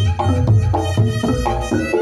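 Reog Ponorogo gamelan music: a slompret (shawm) playing a melody over kendang drums and gong strokes in a steady, driving beat.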